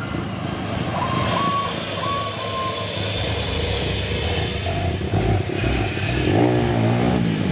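Heavy truck's diesel engine running, with a reversing beeper sounding three short beeps between one and three seconds in.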